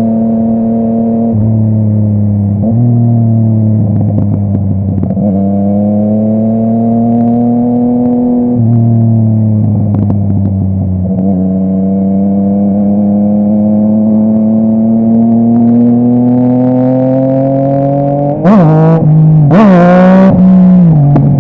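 Yamaha MT-09's inline-three engine through a full Akrapovic exhaust, ridden on the road. It pulls with slow rises in pitch and several gear changes, then revs up and drops quickly about three seconds before the end, with a burst of noise.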